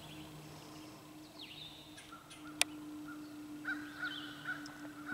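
Faint wild bird calls: short chirping notes that sweep down and back up, repeated every second or two, over a low steady hum, with a single sharp click about two and a half seconds in.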